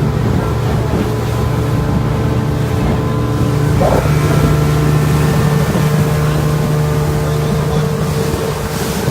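Boat's engine running steadily under way, a constant drone.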